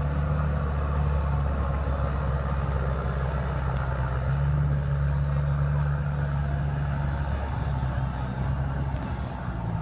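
A competition pulling tractor's engine running steadily at low revs, a little louder in the middle.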